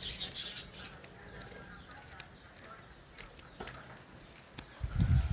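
Birds chirping faintly, with a few light clicks; near the end a loud, irregular low rumble sets in.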